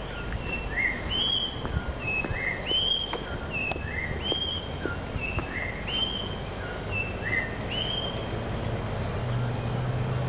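A bird singing the same short phrase over and over, clear whistled notes that slur upward and then hold level, about once every second and a half. A low steady hum comes in near the end.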